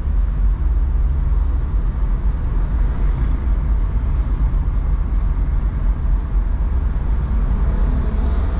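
Steady low rumble of a car being driven on a city road: engine and tyre noise with surrounding traffic.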